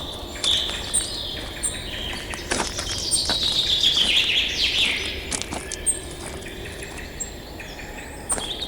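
Wild birds calling: repeated short whistled notes and faint high chirps, with a long run of notes falling in pitch from about three to five seconds in, over a steady outdoor background hiss.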